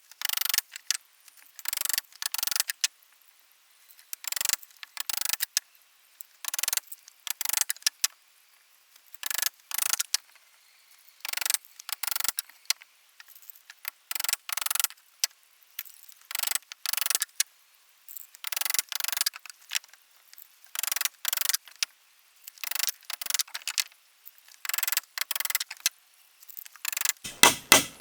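Hand-tool work on wood: short rasping strokes in groups of two or three, about every two seconds. Near the end, fast, even hammer blows begin, several a second.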